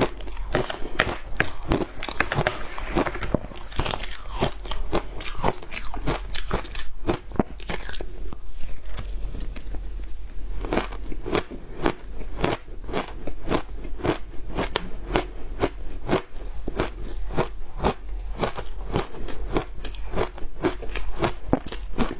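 Frozen matcha ice being bitten and chewed close to the microphone: a steady run of sharp crunches, two to three a second, easing off briefly about nine seconds in.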